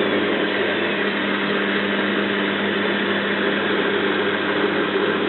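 Zanussi FLA1002W front-loading washing machine spinning a duvet load in a rinse spin burst: a steady motor and drum hum over a rushing noise, with the load a bit unbalanced.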